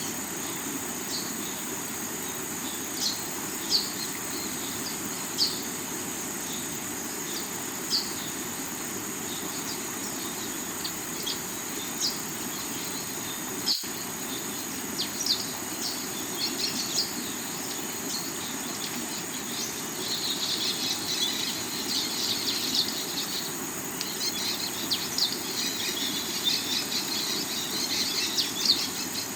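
River water running steadily over rocks, with a steady high insect chirring and scattered short bird chirps that grow busier about two-thirds of the way through. The sound drops out for an instant near the middle.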